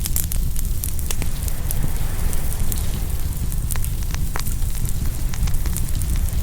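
Open wood fire crackling and popping, with many sharp snaps scattered irregularly over a steady low rumble.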